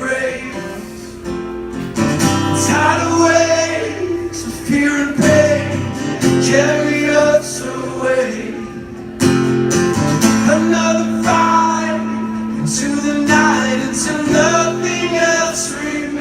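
Live music: an acoustic guitar strumming chords, with a voice singing over it.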